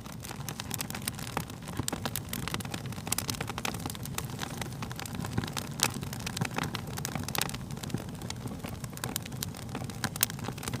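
Fire crackling: frequent irregular pops and snaps over a steady low rumble, with a couple of louder pops, one a little before the middle and one near the end.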